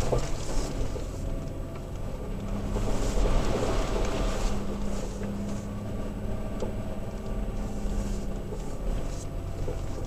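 Toyota Tacoma pickup moving slowly on a rough dirt road, heard from inside the cab: a steady low engine hum with scattered knocks and rattles from the truck over bumps. A steadier drone comes in about two seconds in and fades near the end.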